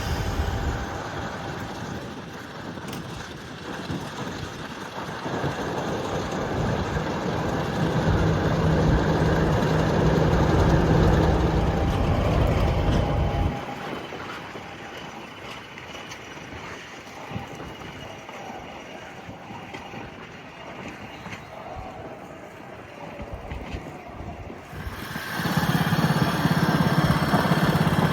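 A train engine running with a steady low hum. It is loud for a few seconds, stops abruptly about halfway, carries on quieter, then comes back loud near the end.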